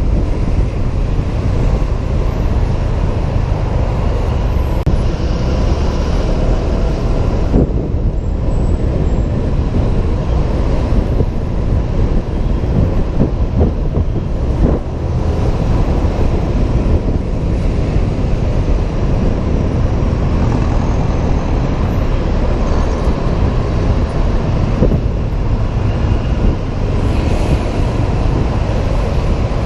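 Steady loud rumble of riding a Honda PCX 125 scooter, heard from a helmet camera: wind buffeting the microphone over engine and road noise, with a few brief knocks.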